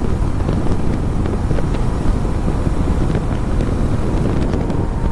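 Riding noise from a KTM Duke 250 motorcycle: wind buffeting the microphone over the running single-cylinder engine, a steady low rumble.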